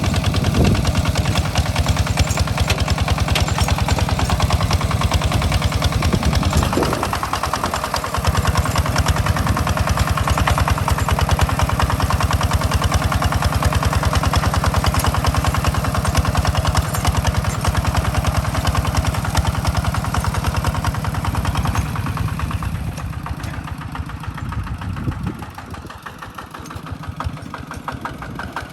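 Hinota two-wheel walking tractor's single-cylinder diesel engine running with a steady, rapid firing beat. It eases off a little over twenty seconds in, then picks up again near the end.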